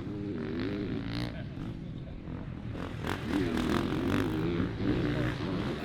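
Motocross dirt bike engines revving, their pitch repeatedly rising and falling as the throttle is worked, over a steady low rumble.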